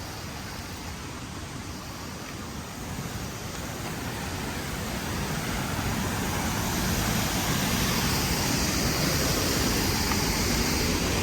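Waterfall rushing, a steady wash of falling water that grows louder over the first several seconds and then holds.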